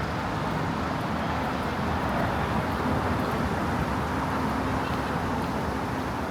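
Road traffic on a busy city street: cars passing as a steady wash of road noise, under a faint steady hum.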